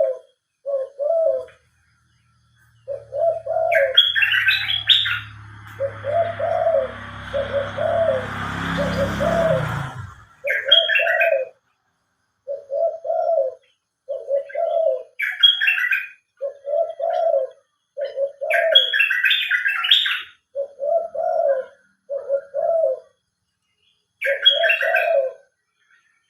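Doves cooing over and over in short low calls, with another bird chirping in brief bursts every few seconds. From about three seconds in, a low drone with a hiss rises in pitch and cuts off suddenly about ten seconds in.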